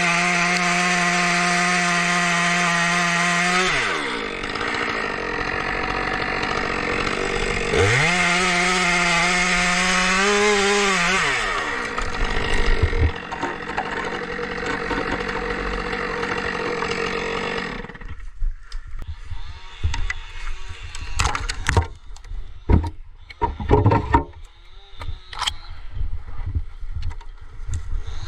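Chainsaw engine at full throttle in two long bursts, the first dropping back about four seconds in and the second running from about eight to eleven seconds before the revs fall away again. The saw then runs low until about eighteen seconds in, after which there are only scattered sharp knocks and clatter.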